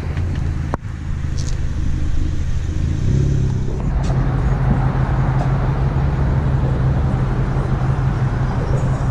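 2019 Ford Mustang GT's 5.0 V8 pulling away: the engine note steps up about three seconds in and then holds steady as the car cruises, with road and wind noise building under it. A single sharp click comes just under a second in.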